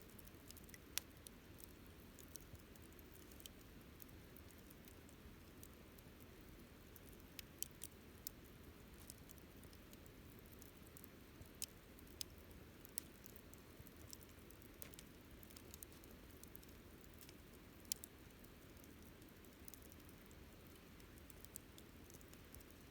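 Wood campfire crackling: irregular sharp pops and snaps, a handful of them loud, over a faint steady low rush of the burning fire.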